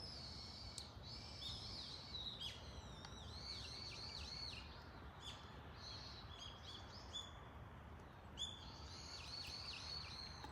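Japanese tits calling: a steady string of short, high chirps, many curving down in pitch, over a faint low background hum, with a sharp click about a second in.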